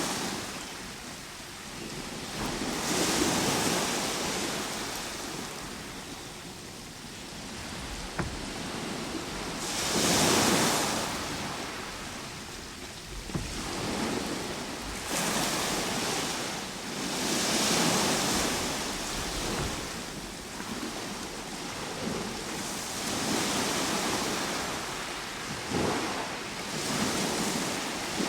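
Ocean surf: waves breaking and washing ashore, swelling and fading every few seconds.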